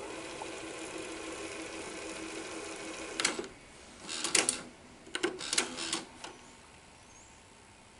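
Sony SL-330 Betamax VCR fast-forwarding the tape: a steady motor-and-reel whir for about three seconds, then a series of sharp mechanical clicks and clunks as the transport stops, then quiet room tone.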